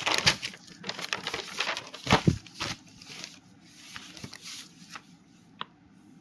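Paper rustling and crinkling, loudest in the first three seconds, then a few light taps and clicks.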